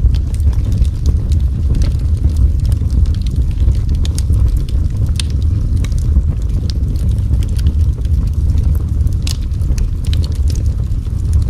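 Wood fire burning in a fireplace: a steady low roar with irregular sharp crackles and pops.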